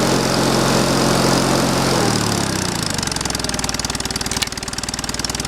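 Small gas engine of a wood splitter running steadily, then dropping in speed about two seconds in and running on with a slower, pulsing beat, as when the splitter takes load.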